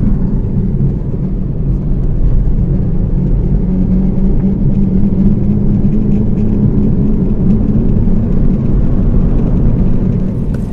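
Steady low growl heard from inside a moving 2015 Suzuki Swift, over the road noise: the drone of a broken rear wheel bearing. It falls away near the end.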